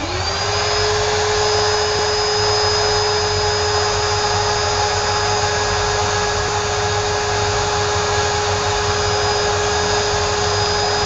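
An electric blower switches on and spins up within a fraction of a second to a steady, even whine over a loud rush of air, then runs unchanged.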